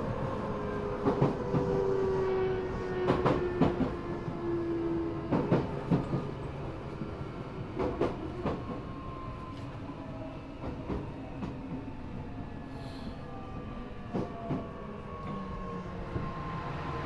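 Running noise inside an Eidan 6000-series subway car fitted with a high-pitched Mitsubishi three-level VVVF inverter taken from a 7000-series train. The inverter's tones slide steadily down in pitch as the train slows, with sharp wheel clicks over rail joints, and the noise eases off.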